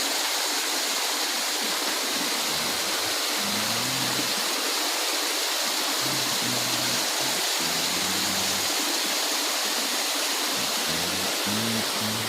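Steady rushing water like a stream or waterfall, an even hiss that does not let up, with the low notes of background music coming and going underneath.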